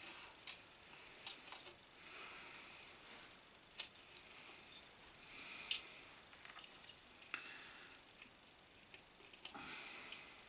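Scattered light clicks and short rustles of hands working wires and small tools at a bench, the sharpest click about halfway through.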